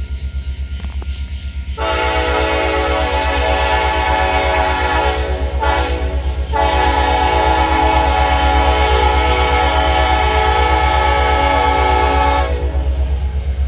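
Nathan K5LLA five-chime air horn on a Union Pacific diesel locomotive sounding two long blasts, the first starting about two seconds in and the second ending about a second before the end, with a brief break between them about six seconds in. Under the horn is the steady pulsing low throb of the locomotive.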